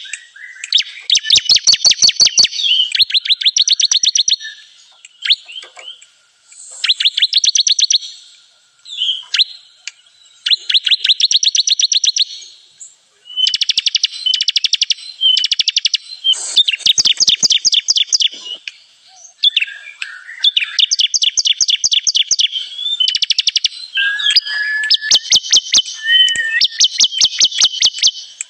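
Bar-winged prinia (ciblek kristal) song played as a bird-trapping lure: repeated bouts of rapid, high trills, each a second or two long, with short pauses between.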